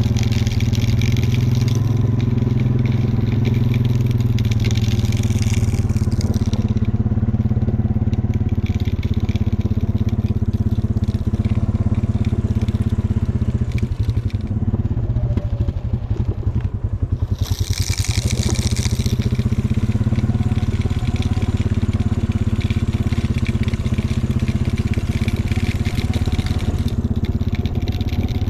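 A vehicle engine running steadily under a constant crunching and crackling, as of tyres rolling over snow and salt, with a brief sharper hiss about eighteen seconds in.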